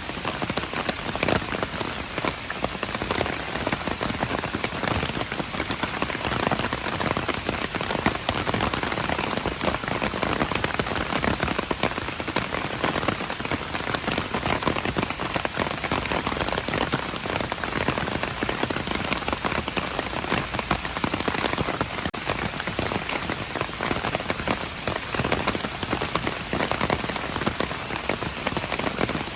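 Steady rain falling on hard surfaces: a dense, even patter of countless drops with no letup.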